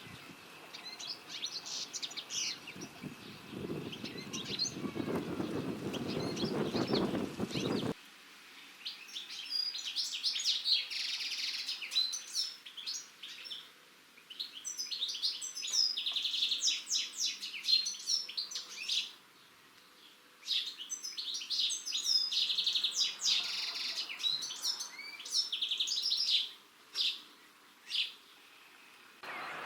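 European goldfinch singing: rapid, twittering phrases in several bursts with short pauses between them. A low rumbling noise lies under the song for the first eight seconds and cuts off suddenly.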